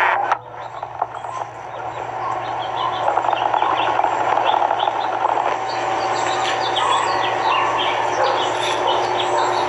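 Birds chirping: many short, high chirps that begin a few seconds in and come thickly through the rest, over a steady background hum.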